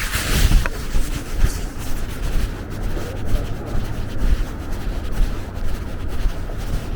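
Wind buffeting the microphone, a loud, uneven low rumble with hiss above it.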